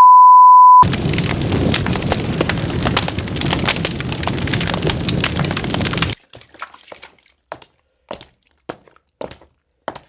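A loud, steady, single-pitched beep lasting under a second, followed by about five seconds of dense crackling noise full of clicks that cuts off suddenly. After that come a handful of faint, scattered clicks.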